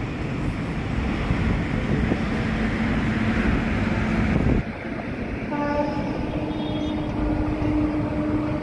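Train running with a heavy steady rumble. About halfway through the sound changes abruptly, and a long, steady pitched tone with several overtones sets in over the rumble.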